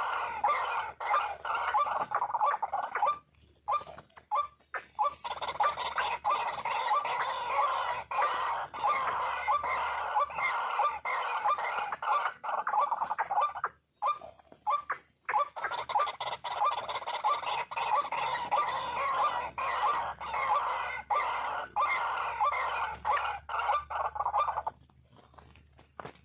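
White-breasted waterhen (ruak-ruak) calling: fast, repeated clucking notes in long unbroken runs, which stop suddenly about three seconds in and again about fourteen seconds in before starting up again.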